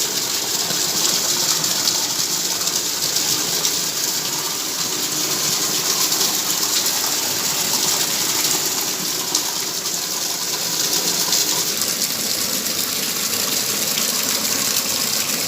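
Rainwater running off the roof pours steadily into a bucket in a constant splashing gush as the bucket fills.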